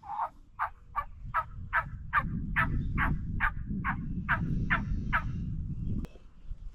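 Wild turkey yelping: a long, even series of about a dozen yelps, a little over two a second, that stops about five seconds in, over a low rumbling noise.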